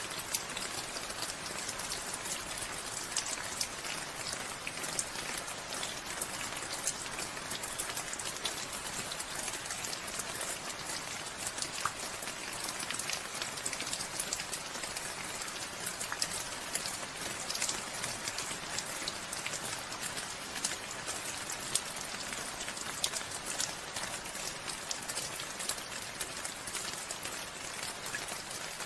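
Steady rain falling, an even hiss strongest in the high range with many separate drop ticks scattered through it.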